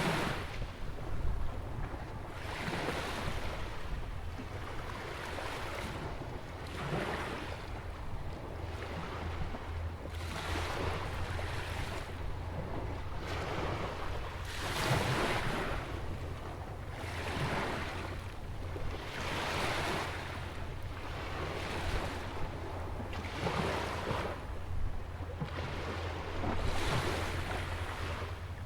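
Small ocean waves breaking and washing in beside a jetty, one swell of hiss every two to three seconds, over a steady low rumble of wind on the microphone.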